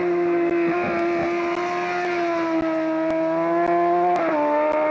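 Rally car engine held at high revs in one steady note, its pitch dropping suddenly about four seconds in.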